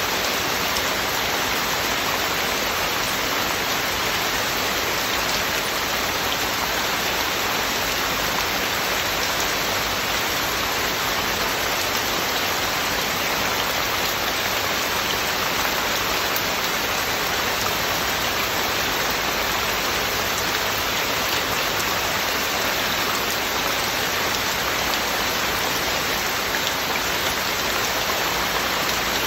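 Heavy rain falling steadily, a constant even hiss of drops with no thunder.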